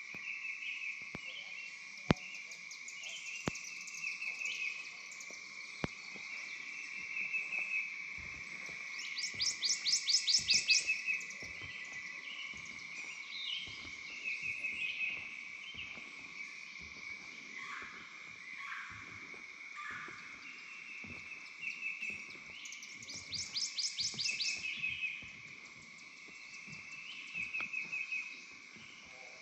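Swamp wildlife chorus: insects and frogs keep up a steady high drone, while a bird gives loud, rapid trilling calls twice, about ten seconds in and again near twenty-four seconds. A few sharp clicks sound in the first six seconds.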